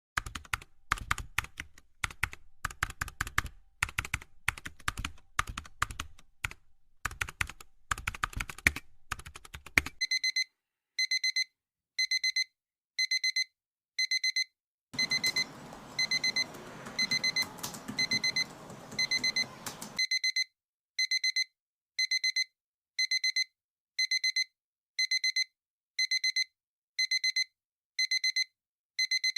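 Quick irregular clicking, like typing on a computer keyboard, for about ten seconds. Then an electronic alarm beeps steadily, a little more than once a second, like a digital alarm clock. For about five seconds partway through the beeping, a hiss runs underneath.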